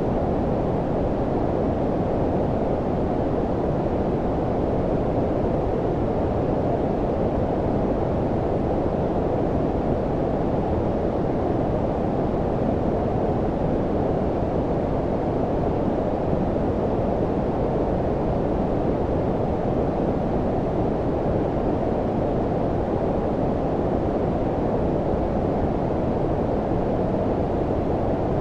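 Steady low-pitched synthetic noise, like brown noise: an even, deep rushing hiss with most of its energy below about 1 kHz, unchanging throughout.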